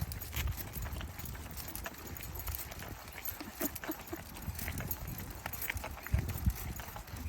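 Footsteps of a walker and a pack of dogs on a trail: irregular crunching steps and soft thumps over a low rumble.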